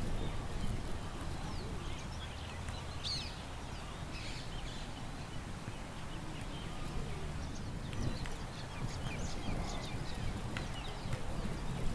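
Small birds chirping and twittering here and there, with a brief flurry of calls about three seconds in, over a steady low rumble of wind.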